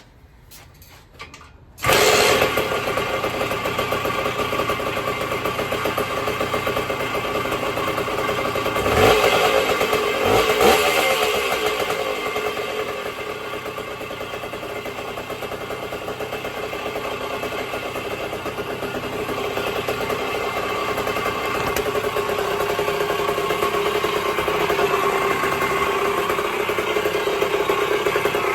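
1974 Indian SE74's Minarelli P4-70 two-stroke single fires up suddenly about two seconds in and keeps running. It is blipped up twice around the middle, then settles back to a steady idle that holds on its own.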